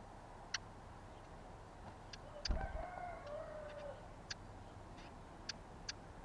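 A rooster crowing once in the distance, a call about a second and a half long, starting with a low thump. Short sharp ticks sound now and then throughout.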